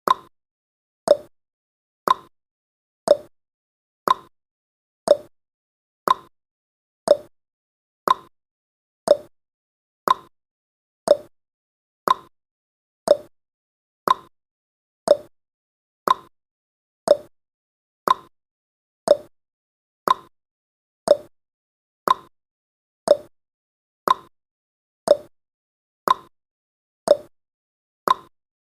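Countdown timer's clock-tick sound effect: a short tick once every second, alternating higher and lower like a tick-tock.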